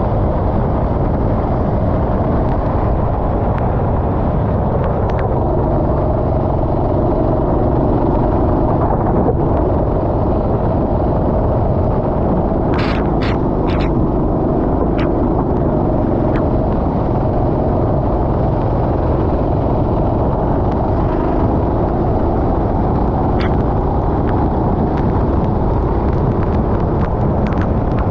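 Racing kart engine running steadily under load on track, heard onboard with heavy wind buffeting on the microphone. A few sharp clicks about halfway through.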